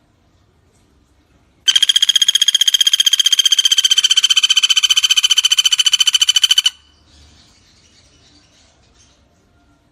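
Pelatuk bawang woodpecker's call: one loud, rapid, even trill, beginning about two seconds in and lasting about five seconds.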